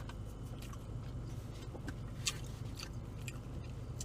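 A person chewing a mouthful of BBQ chicken pizza, with scattered small wet clicks and smacks of the mouth over a steady low hum.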